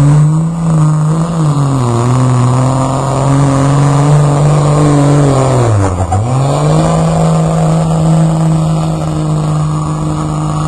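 Pulling truck's engine at full throttle under load. Its pitch wavers early, drops sharply about six seconds in, then climbs back and holds steady.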